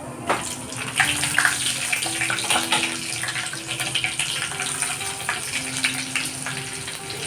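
Water running from a tap and splashing unevenly, as when something is rinsed under it.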